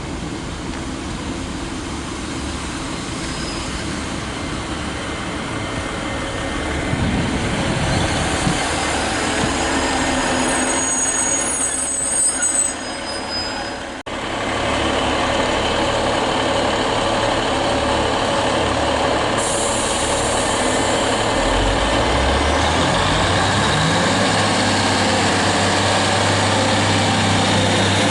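A train running past on the rails, with high wheel squeal about ten to thirteen seconds in. After an abrupt cut about halfway, a diesel multiple unit's engine rises in pitch as it accelerates, then runs steadily.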